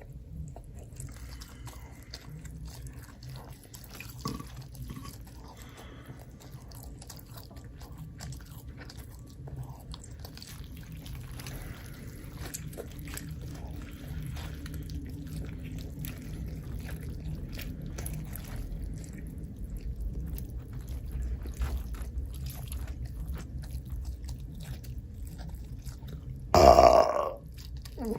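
Close-miked eating sounds of a person chewing and biting, with small crunches and wet clicks. Near the end comes one loud, short sound lasting about half a second.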